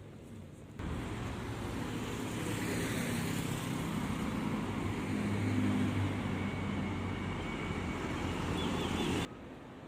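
Street traffic: a steady noise of passing vehicles over a low engine hum. It begins suddenly about a second in and cuts off suddenly near the end.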